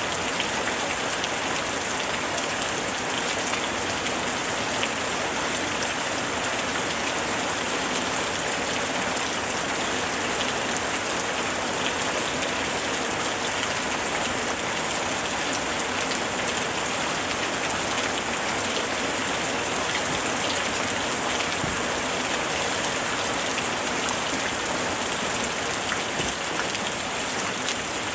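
Steady heavy rain falling, with scattered sharp drop impacts on hard surfaces.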